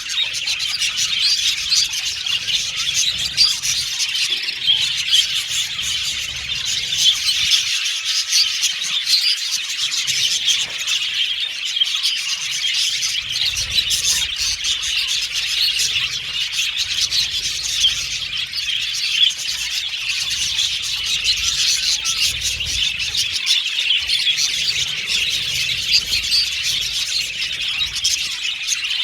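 Budgerigars chattering and chirping continuously, a dense flock warble with no pauses.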